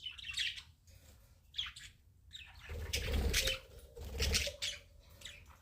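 Budgerigars chirping in short high calls, with two bursts of wing flapping, each about a second long, in the middle.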